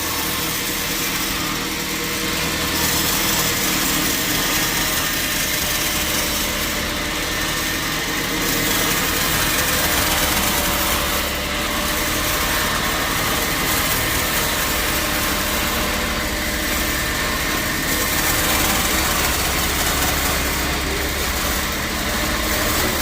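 Sawmill machinery running steadily: a constant mechanical drone with a dense high hiss and no breaks.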